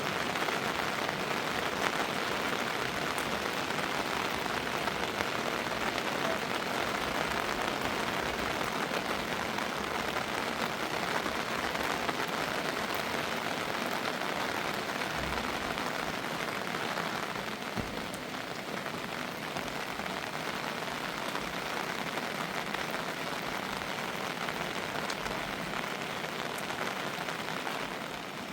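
Steady rain falling, an even dense hiss with scattered drop ticks, easing slightly about two-thirds of the way through.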